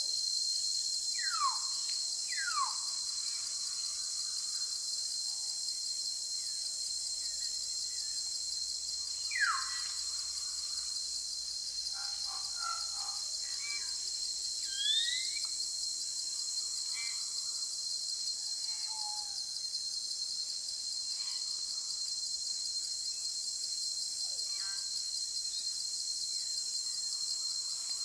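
Steady, high-pitched insect chorus throughout, with scattered bird calls over it: sharp falling whistles about a second and two seconds in and again near the ten-second mark, and a pair of quick rising notes about halfway.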